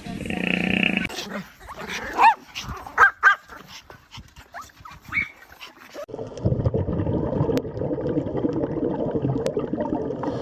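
A dog yipping and whimpering: a few short, sharp high calls that rise and fall in pitch. From about six seconds in, a dense, steady noise takes over.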